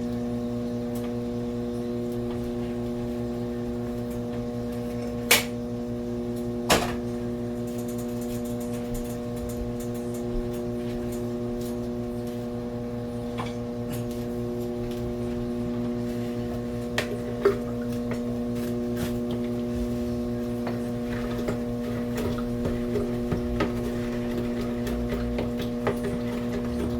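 Steady electrical hum from a running kitchen appliance, with a few sharp knocks of things being handled: two close together early on and more past the middle.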